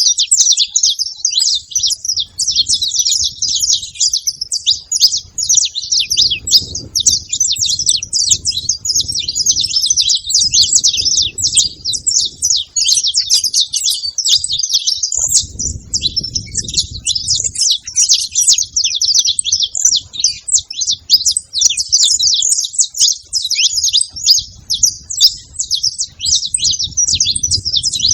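Several saffron finches chirping and singing together: a dense, unbroken stream of rapid, high, overlapping chirps.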